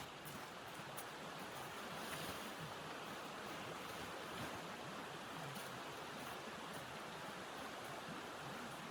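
Steady rushing hiss of blizzard wind, with a faint click about a second in.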